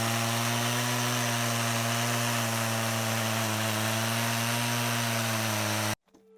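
Chainsaw running steadily under load, cutting wood, at an even pitch; it cuts off abruptly near the end.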